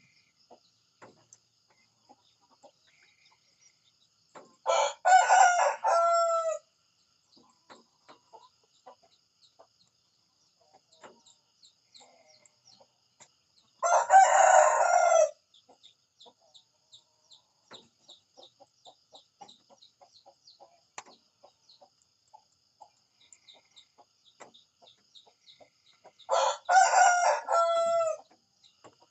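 Rooster crowing three times, about ten seconds apart, each crow lasting under two seconds and ending on a falling note.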